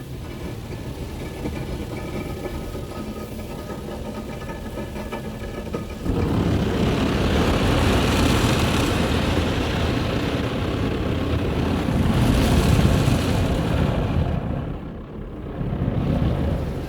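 Automatic soft-touch car wash heard from inside the vehicle's cabin. A low steady hum runs for about six seconds, then the wash equipment suddenly starts working on the vehicle with a loud rushing noise. The noise eases briefly near the end and then surges again.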